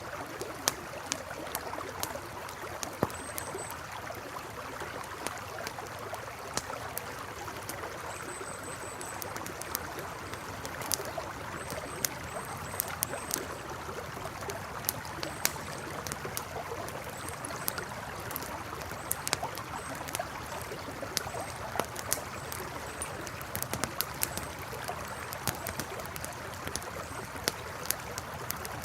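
Campfire crackling with frequent sharp pops over the steady rush of a flowing river. Short, high chirps recur every second or two.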